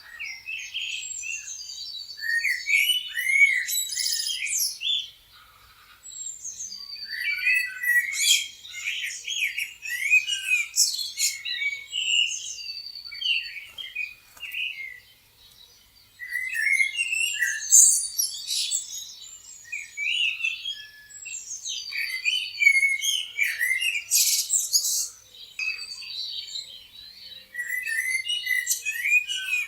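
Several songbirds chirping and singing over one another in a dense chorus of short chirps, trills and whistled notes, with brief lulls twice.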